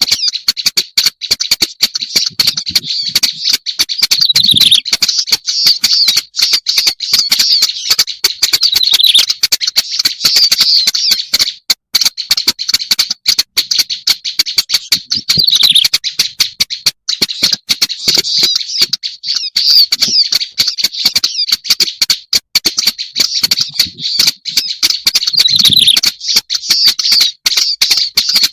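Black-browed reed warbler song played as a bird-lure recording: a loud, continuous, fast scratchy chatter of harsh clicks and high notes, with a short falling note every few seconds.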